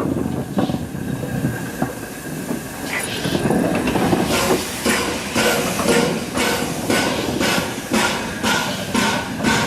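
Steam locomotive 60163 Tornado, a Peppercorn A1 Pacific, running with steam hissing. From about four seconds in, a steady run of regular beats sets in, about two a second.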